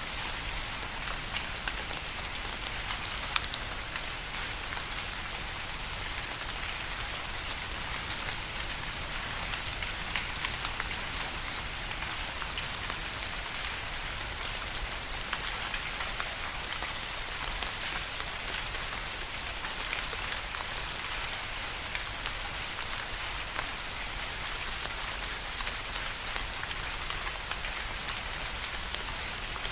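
Steady rain falling, an even hiss with many small distinct drop ticks scattered through it.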